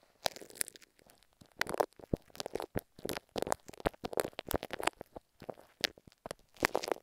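Glue stick worked close to earphone microphones: irregular sticky crackles and clicks coming in short bursts.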